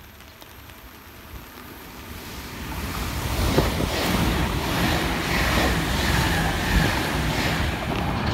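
Express electric train running through a station without stopping: a rushing noise of wheels on rail and moving air that builds over the first three seconds and stays loud while the cars pass.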